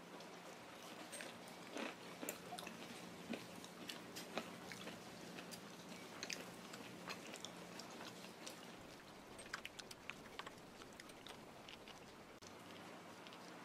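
Faint close-up eating sounds of a person chewing rosé tteokbokki: soft chewing with many small irregular clicks.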